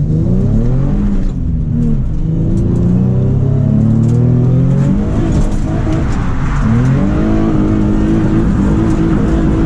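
Nissan 350Z's VQ V6 engine revving hard on a drift run. The revs climb and drop several times, dipping briefly about a second in and again around five seconds, then hold steady at high revs near the end.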